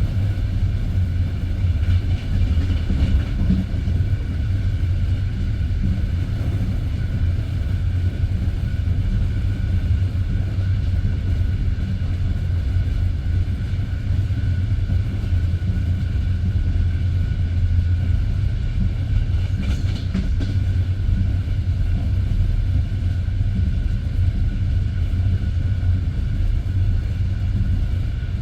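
A passenger train running at speed between stations, heard from inside the coach: a steady, loud low rumble of wheels on rail, with a few faint knocks.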